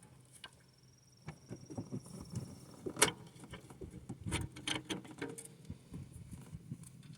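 Hand tools clicking and clinking against metal in an engine bay, irregular small clicks and knocks with one sharp click about three seconds in.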